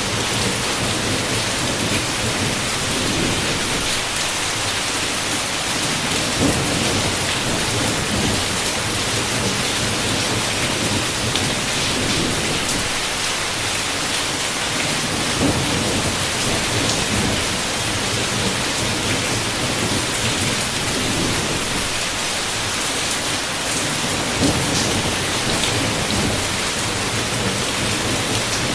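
Heavy rain falling steadily, with low rolls of thunder swelling and fading now and then.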